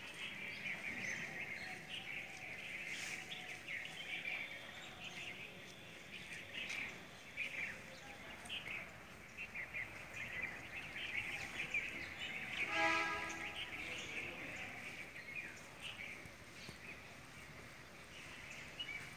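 Many small birds chirping and twittering, with one brief, louder honk-like call about two-thirds of the way through.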